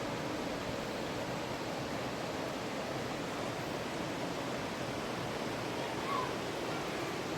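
Steady rushing of a river's flowing water, an even unbroken noise. A brief short chirp sounds faintly about six seconds in.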